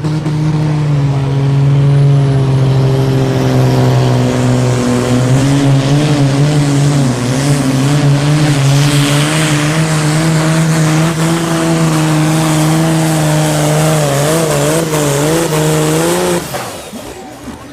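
Super Sport class pulling tractor's engine running flat out under load during a pull, its note holding steady and then wavering in the last few seconds. The engine cuts off suddenly about 16 seconds in, at the end of the pull.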